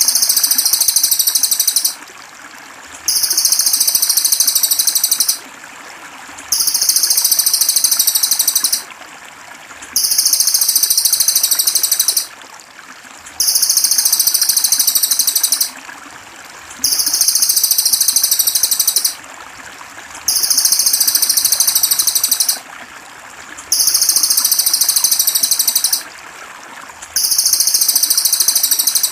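A high, fast, buzzing trill, each about two seconds long, repeating every three seconds or so in an even loop. It runs over steady trickling water.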